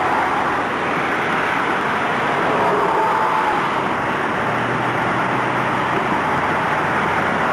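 Car running along the road, its road noise a steady hiss with a low engine hum that steps up slightly in pitch a little over halfway through.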